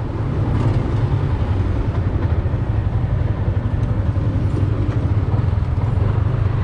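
Motorcycle running on the road with a heavy, steady low rumble, wind buffeting the camera microphone.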